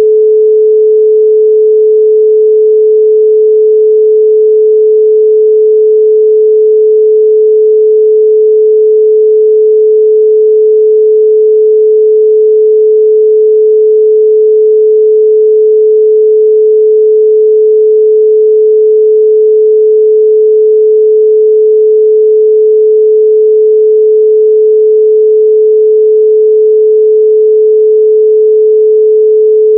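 A steady, loud 432 Hz pure sine tone, a single unchanging pitch with no other sound.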